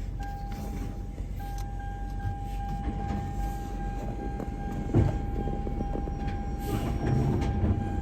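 Rear-loader garbage truck's diesel engine running with a steady low rumble and a constant high whine, with a single thump about five seconds in and heavier rumble near the end.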